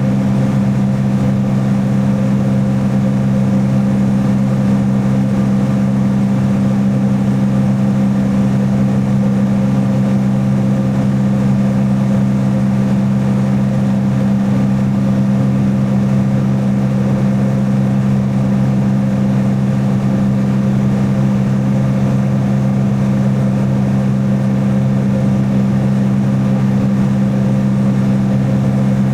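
Jet ski engine running at a steady throttle, its drone holding one pitch throughout.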